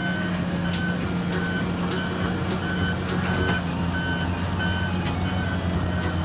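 Reversing alarm beeping at an even pace, about three beeps every two seconds, over a diesel engine running steadily, with a few faint knocks.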